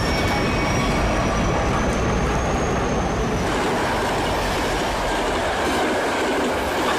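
Passenger train running along the track: a steady, dense rumble and rattle of the moving carriages, with a thin high whine over it that rises slightly and fades out about three seconds in.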